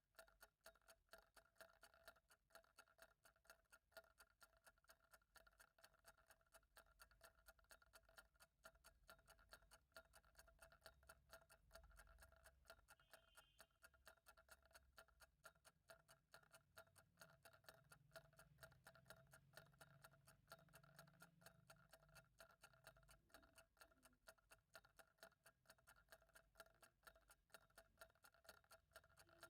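Faint, steady ticking of a clock, an even run of sharp ticks at a regular pace, over a low steady hum.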